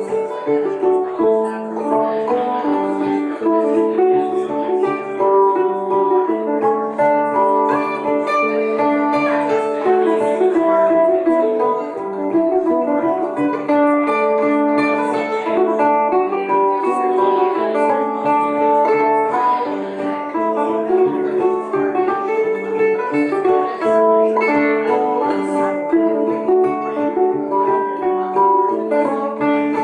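Live acoustic folk instrumental on plucked strings, with a mandolin carrying a busy melody over a steady accompaniment.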